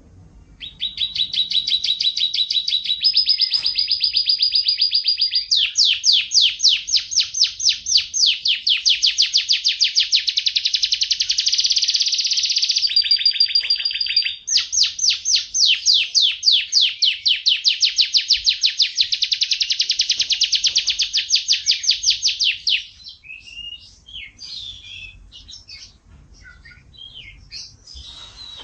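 A songbird singing one long, rapid trill of quickly repeated high notes, shifting pitch several times over about twenty seconds. Near the end it breaks off into scattered short chirps.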